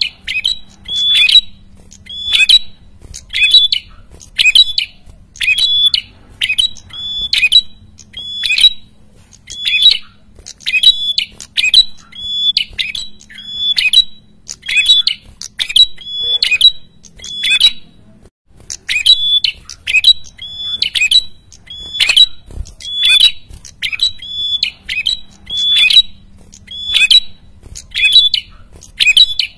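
Caged prenjak kepala merah (red-headed prenjak) calling nonstop: short, sharp, harsh notes repeated about once or twice a second, with one brief pause about two-thirds of the way through. This is the bird's noisy, agitated calling, the kind used to lure wild prenjak.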